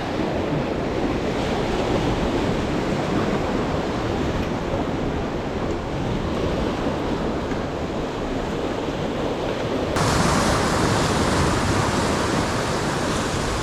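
Rough sea surf and strong wind as a steady rushing noise, with wind buffeting the microphone. About ten seconds in the sound abruptly turns brighter and hissier.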